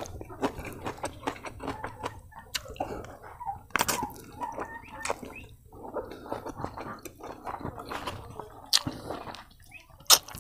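A person chewing pork trotter meat, a run of short, irregular mouth clicks and smacks.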